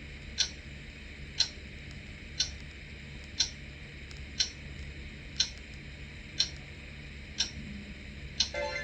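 Clock ticking once a second, about nine ticks in all, over a faint low hum, with a short tone near the end: a countdown-timer sound effect.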